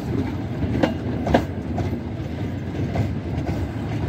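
Metre-gauge passenger coaches rolling slowly past, with a steady low rumble and sharp clicks as the wheels cross the rail joints: two clicks about half a second apart about a second in, and another around three seconds in.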